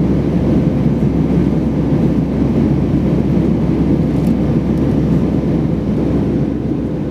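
Steady rumble inside the cabin of an Airbus A320-232 in flight: its IAE V2500 engines and the airflow heard from a window seat, with a faint steady hum running through it.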